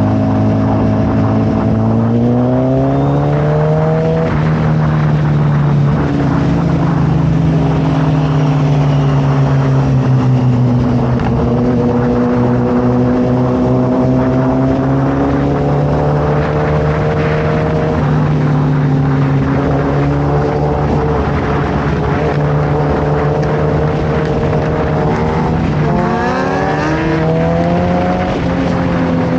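Suzuki Hayabusa's inline-four engine through a Brock's full exhaust system while the bike is being ridden. The engine pitch rises about two to four seconds in, holds fairly steady, drops back a little past halfway, and climbs quickly again near the end.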